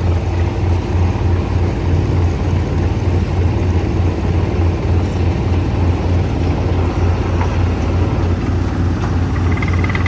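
Stone crusher machine running steadily, a loud continuous mechanical din over a low, rapidly pulsing throb.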